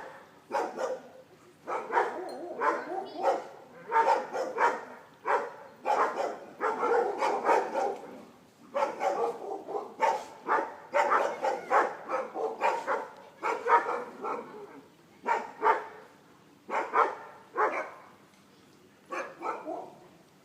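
A dog barking repeatedly in short, sharp barks, sometimes in quick runs and sometimes singly, thinning out near the end.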